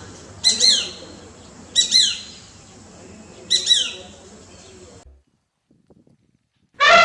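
Short high chirping calls from an animal, each a quick pair of falling notes, repeated three times one to two seconds apart. They break off into silence about five seconds in, and a loud, long, pitched call begins just at the end.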